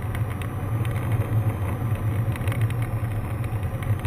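Cessna 152's four-cylinder Lycoming O-235 engine and propeller droning steadily, heard from inside the cockpit.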